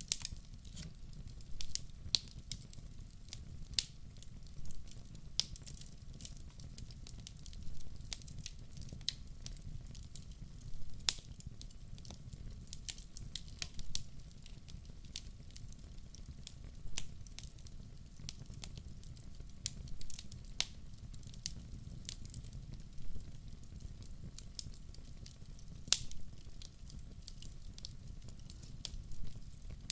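Wood fire burning in a fireplace: a steady low rumble of flame with irregular sharp crackles and pops, a few louder pops standing out.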